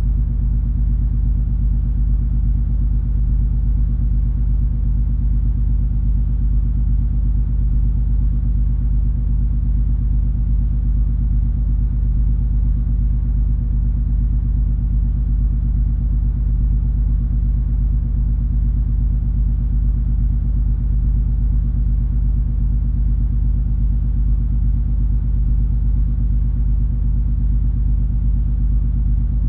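Steady low rumble and drone of the cruise ferry MS Color Magic under way, its engines giving a deep, unchanging hum.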